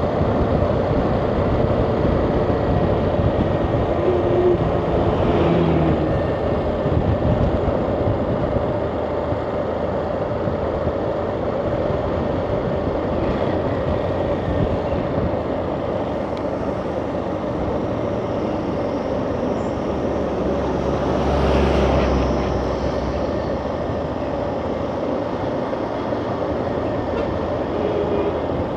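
Motorcycle riding along with its engine running steadily. Near the end there is a brief louder swell with a deeper rumble.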